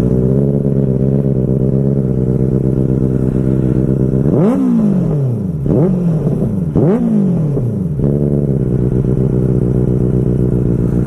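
Superbike engine idling steadily, then revved in three quick throttle blips, about four and a half, five and a half and seven seconds in, each rising sharply in pitch and falling back to idle.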